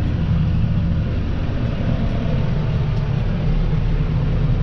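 Tractor engine running under steady load, a constant low drone while driving through snow with the snow plow.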